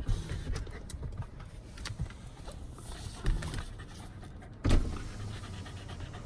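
A Mino Shiba dog panting, with a knock a moment in and a louder thump about three-quarters of the way through.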